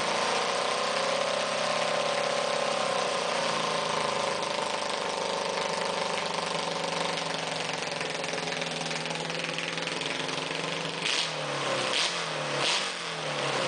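Yamaha motorcycle engine in a racing lawn mower running just after start-up, its pitch drifting a little. Near the end the pitch slides down and back up, and three short sharp knocks are heard.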